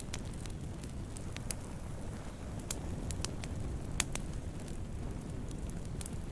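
Campfire of burning wood crackling: irregular sharp snaps and pops, the loudest about four seconds in, over a steady low rumble of the flames.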